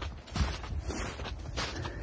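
Footsteps of a person walking on the forest floor, about two steps a second, each step a short crunch, over a low rumble.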